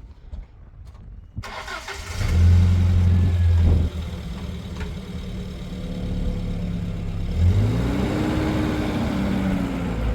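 A vehicle engine starts and runs with a steady low hum. About halfway through it revs up, its pitch rising and then easing down as it pulls away.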